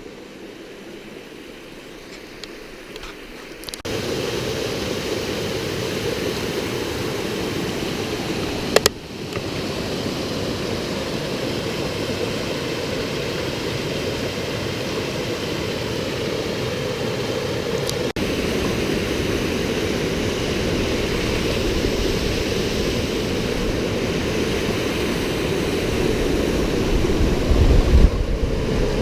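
Steady rushing of flowing water, low and faint for the first few seconds, then loud from about four seconds in, with a couple of abrupt jumps in the sound.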